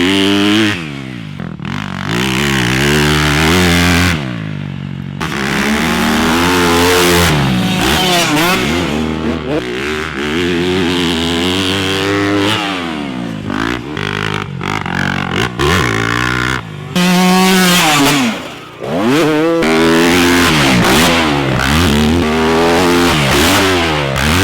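Dirt bike engines revving hard and easing off over and over, the pitch climbing and then dropping back every second or two as the throttle is worked, with brief lulls between runs.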